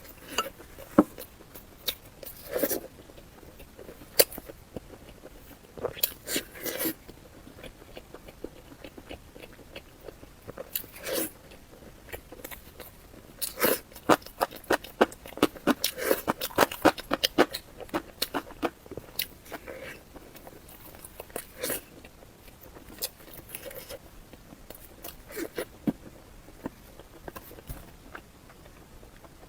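Close-miked eating: crunchy bites and chewing, with a dense run of crisp crunches around the middle and scattered ones before and after.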